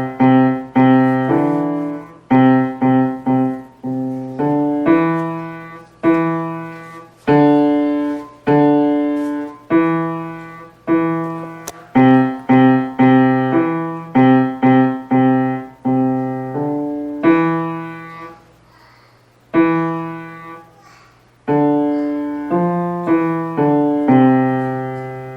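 A child playing a simple tune on the piano, one struck note or chord at a time, each ringing and fading, with short pauses between phrases.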